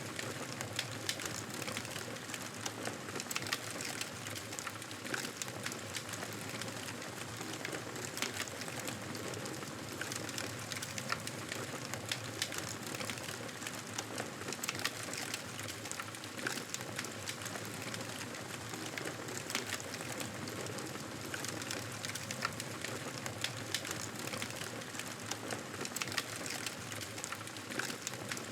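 Wood fire crackling in a fireplace: steady noise with frequent small, sharp pops.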